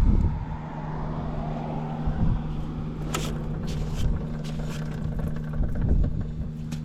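Honda Jade 250's inline-four engine running, the revs dropping back right at the start and then idling steadily, with a few light clicks about three seconds in. The seller calls the engine in top condition with no abnormal noise.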